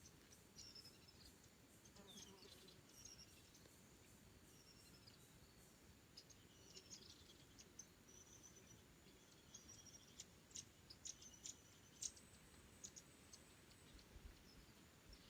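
Faint small songbirds chirping, scattered short high notes and little whistled glides, growing busier about halfway through, over a faint low rush of a forest stream.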